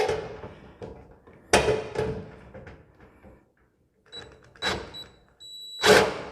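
Knocks and metallic clatter of hand tools and screws being handled while refitting a dryer part, several separate sharp knocks, the loudest near the end. A thin high whine comes in and out during the second half and holds briefly just before that last knock.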